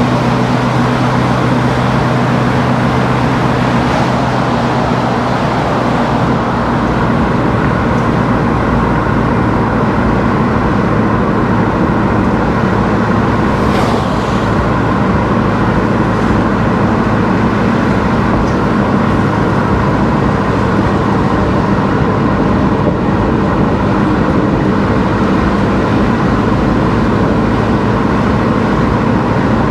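A car driving steadily along a road: a continuous drone of engine hum and tyre and road noise, with no changes in pace.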